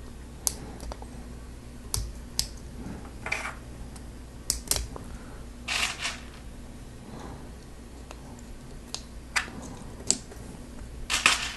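Hard plastic Lego Technic pieces clicking as they are handled and pressed together in an engine assembly, scattered sharp clicks with a few short rattles of loose parts.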